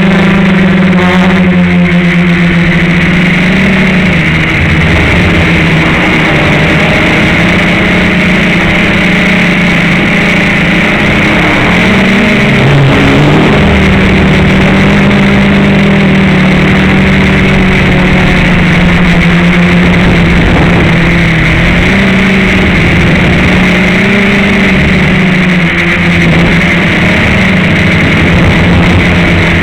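FPV quadcopter's electric motors and propellers buzzing loudly and steadily, the pitch wavering now and then as the throttle changes.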